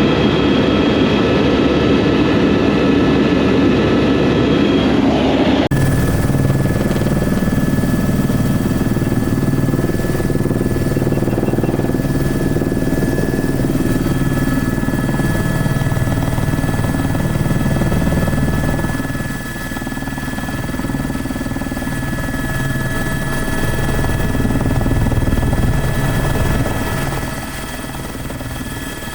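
Helicopter running steadily, the turbine's steady whine over the low beat of the rotor; the sound changes abruptly about six seconds in.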